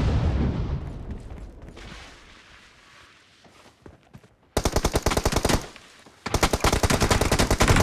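Video-game automatic gunfire: a deep rumble dies away over the first few seconds, then a short burst of rapid shots about halfway through, and sustained rapid fire from about six seconds in.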